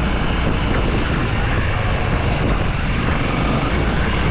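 Honda CRF300L dirt bike's single-cylinder four-stroke engine running steadily while riding along a trail, with a steady rumble and wind noise on the microphone.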